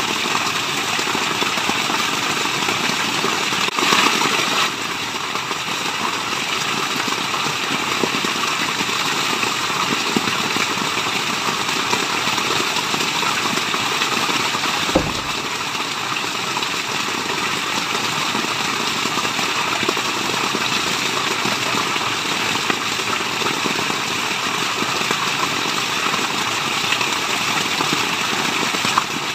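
Waterfall: steady rushing water, an even hiss with no pauses, a little louder for a moment about four seconds in. A single brief low knock about halfway through.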